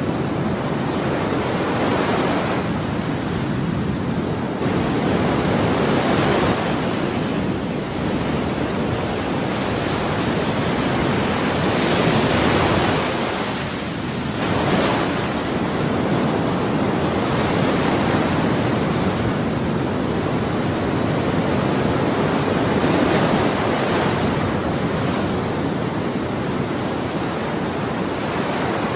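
Ocean waves breaking and washing on a shore, a continuous rushing noise that swells and eases every few seconds.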